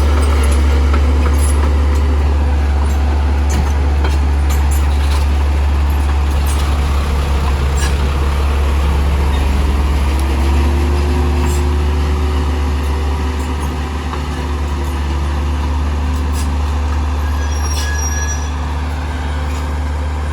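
Heavy earthmoving machine's diesel engine running steadily with a deep rumble. Its pitch rises about halfway through and falls back a few seconds later, with scattered sharp clicks and knocks over it.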